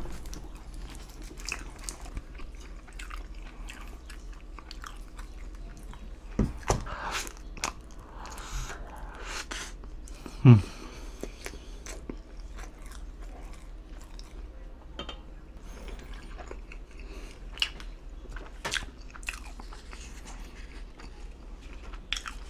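Close-miked chewing and biting of pizza crust with barbecue sauce: wet mouth sounds with scattered sharp clicks. About ten seconds in comes a short low hum that falls in pitch.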